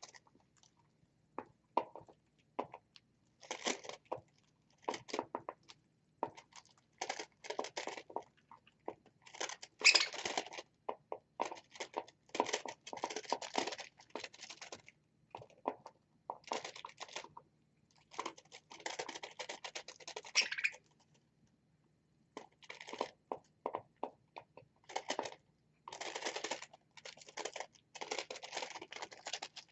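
Pet birds feeding: irregular runs of crunching, crackling and pecking as they bite into seeds, vegetables and leafy greens, broken by short pauses.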